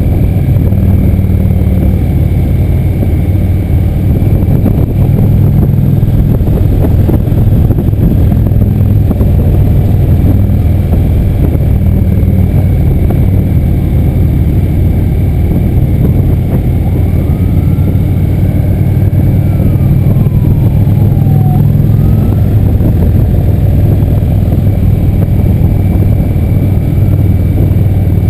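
Motorcycle engine running loud and steady at road speed, with small shifts in engine pitch.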